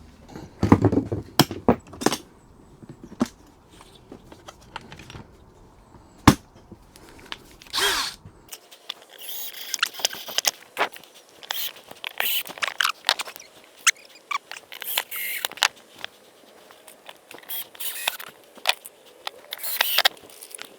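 Wood being handled, with sharp knocks and clatter, then cut with a hand saw in short, uneven rasping strokes.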